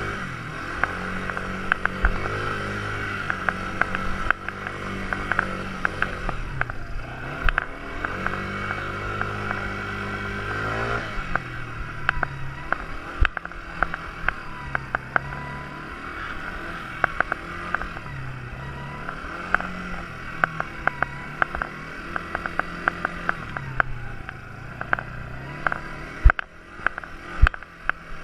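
Quad bike engine running, its pitch rising and falling again and again as the throttle opens and closes, with frequent sharp clicks and rattles.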